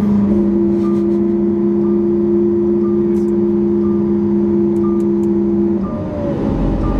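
Lamborghini Aventador's V12 engine, breathing through a Capristo exhaust, holding a steady drone at constant revs; about six seconds in the note breaks off and drops to a rougher, lower sound. A short, faint high pip repeats about once a second.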